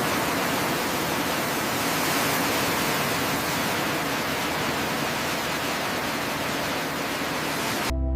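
A steady, even hiss at a constant level that cuts off abruptly near the end.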